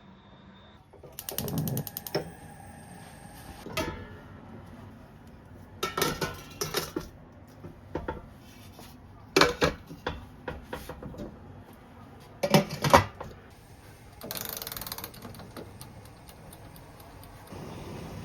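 Kitchen handling sounds: scattered knocks and clicks of cookware and utensils, with a quick run of ticks about a second in and a short hiss around the fourteen-second mark.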